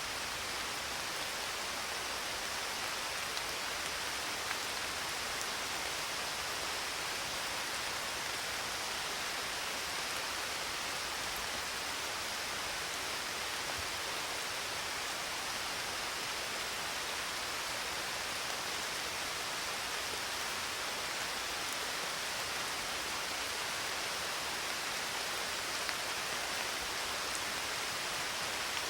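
Steady rain: an even, unbroken hiss of falling drops, with no thunder.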